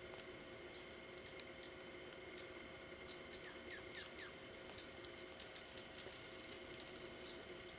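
Small birds calling faintly: short, high chirps that slide downward, coming in quick runs of two or three, over a steady hiss and hum.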